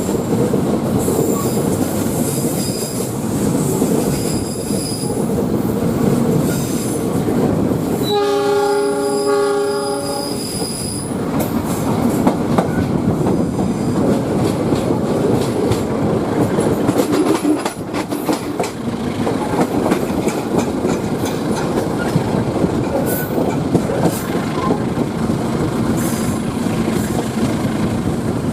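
Passenger train running on the rails with a steady rumble and rattle, with high-pitched wheel squeal on and off in the first part. The locomotive's horn sounds once, about eight seconds in, for roughly three seconds.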